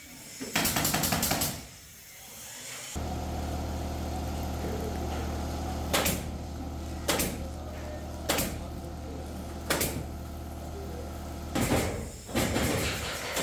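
Four sharp knocks from carpentry work, about one every second and a quarter, over a steady motor hum that starts about three seconds in and stops near the end. Short, loud noisy bursts come before the hum and after it.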